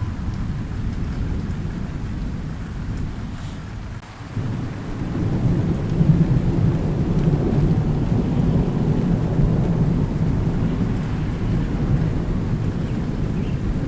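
Thunder rumbling low and long over steady rain. The rumble eases off about four seconds in, then a fresh roll of thunder builds and rumbles on through the rest.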